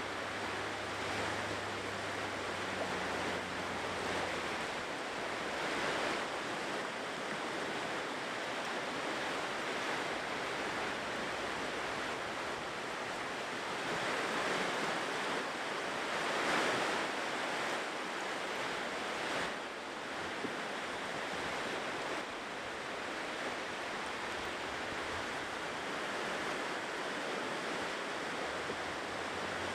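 Ocean surf on a shore: a steady rushing of waves, swelling louder as bigger waves break about halfway through.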